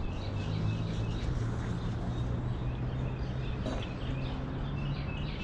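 Birds chirping in the background, short repeated calls, over a steady low hum and an even outdoor noise.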